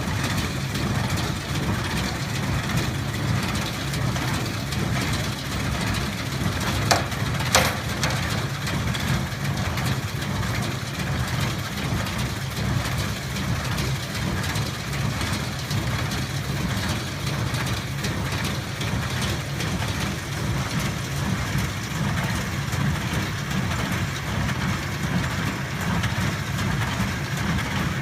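Zetor tractor's diesel engine running steadily while it pulls an International small square baler at work. Two sharp clicks come about seven seconds in.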